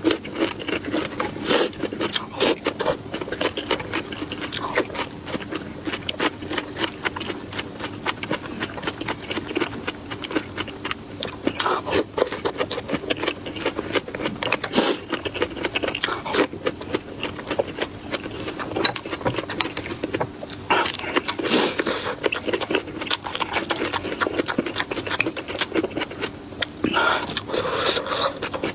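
Close-miked chewing of food: a rapid, irregular run of wet clicks and crunches, with a steady band of sound beneath.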